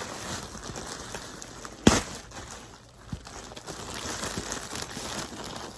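Packaging rustling and crinkling as a handbag is taken out of it, with one sharp knock about two seconds in and a small click a second later.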